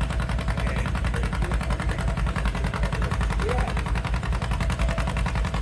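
Antique farm tractor engine running hard under load while pulling a weight-transfer sled: a loud, rapid, even stream of exhaust pulses.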